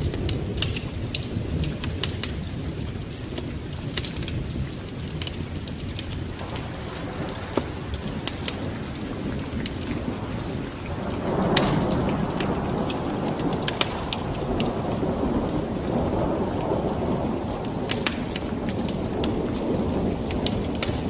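Wood fire in a fireplace crackling, with many sharp pops over a steady low rushing rumble. The rumble swells louder about halfway through.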